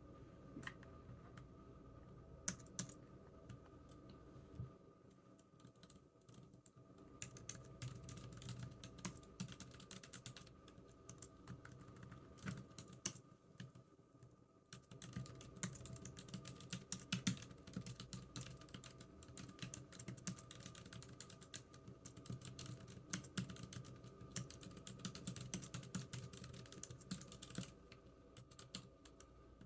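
Typing on a computer keyboard. A few scattered keystrokes give way to quick, continuous runs of typing about seven seconds in, with a brief pause around halfway.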